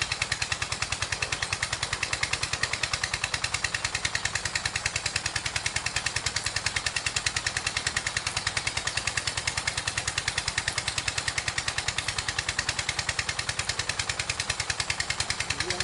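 A small engine running steadily, with a rapid, even beat of roughly ten pulses a second.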